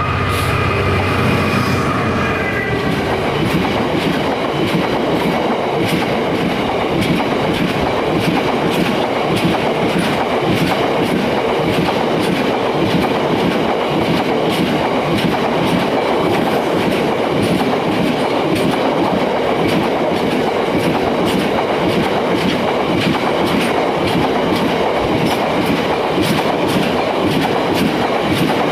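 A freight train's wagons rolling past close by, their wheels clicking steadily over the rail joints. A locomotive's engine note drops and fades away in the first two seconds.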